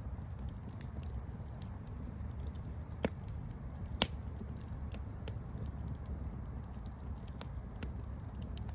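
Campfire crackling: a steady low rumble of burning wood with scattered small sharp pops, and two louder pops about three and four seconds in, the second the loudest.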